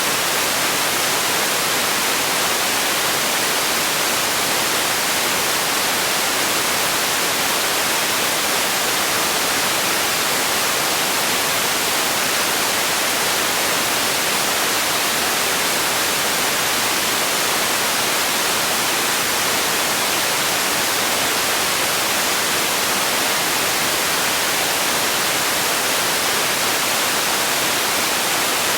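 Steady white-noise hiss for sleep, even and unchanging, with most of its energy in the high end.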